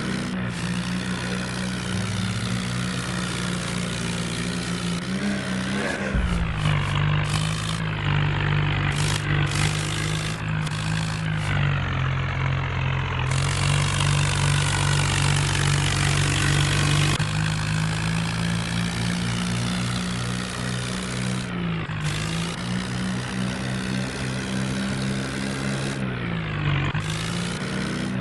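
HMT tractor's diesel engine running steadily, its pitch dipping and recovering about six seconds in and twice near the end.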